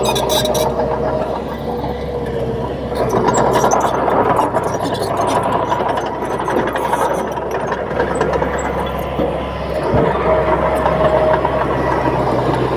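Komatsu D31P bulldozer's diesel engine running steadily at working revs, with scattered clanks and rattles from the machine.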